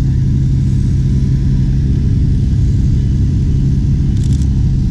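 A car engine running with a steady low rumble and a constant low hum. A few faint quick clicks come about four seconds in.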